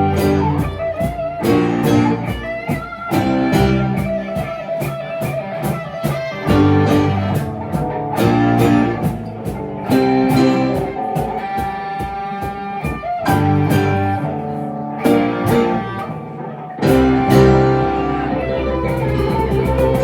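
Band music led by an electric guitar, with a blues-rock feel, playing throughout and dipping briefly about three-quarters of the way through.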